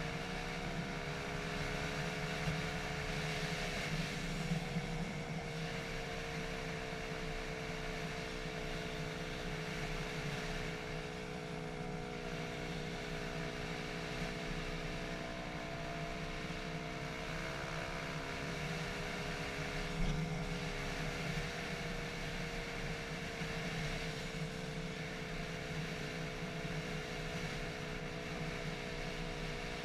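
Dirt bike engine running steadily at moderate revs, its pitch drifting slowly up and down with the throttle, with a few brief knocks.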